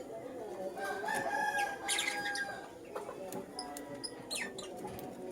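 Young lutino lovebirds chirping and calling: a drawn-out, pitched call about a second in, with sharp high chirps around the middle and again near the end.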